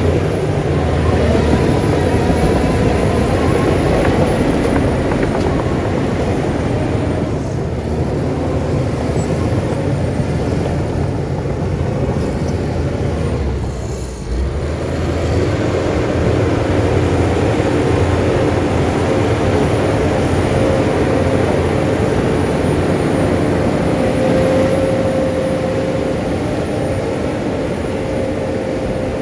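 Heavy diesel earthmoving machinery running steadily, with a steady whine over the engine. The level dips briefly about halfway through.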